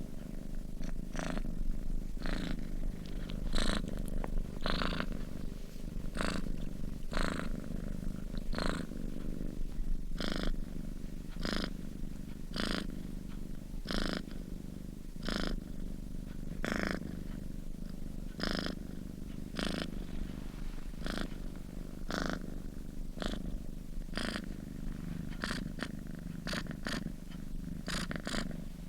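Sleeping domestic cat purring steadily, with a soft breathy stroke roughly once a second as it breathes in and out.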